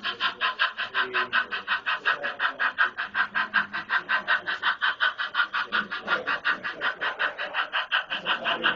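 Model train running on a layout, with a rapid, even pulsing of about eight beats a second that keeps a steady pace.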